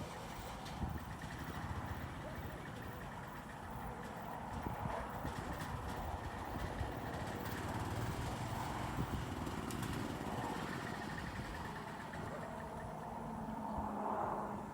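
A gas golf cart's small engine running, a low, rapid pulsing under steady noise.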